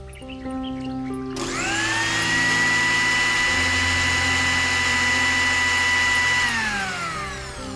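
Miniature electric mixer grinder switched on: its small motor whines up to speed about a second and a half in, runs steadily at a high pitch for about five seconds, then winds down near the end.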